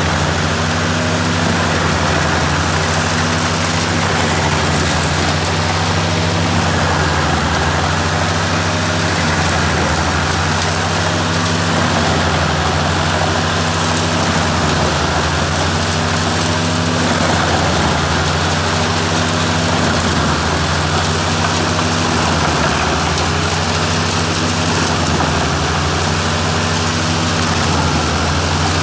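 Ford 8830 tractor's six-cylinder diesel running steadily under power, driving a Maxim 620 wood chipper, with a steady hiss over the engine. The low engine hum swells and fades about every three seconds.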